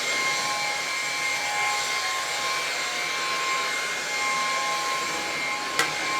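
Lupe Pure cordless stick vacuum running steadily on a hard floor: a high motor whine over an airy rush. There is one sharp click near the end.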